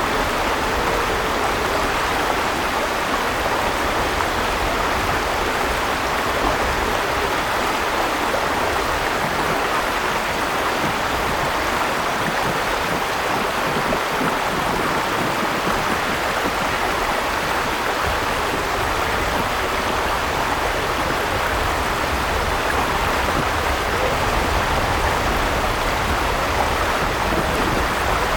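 Steady rushing of flowing river water, an even wash of sound with no breaks.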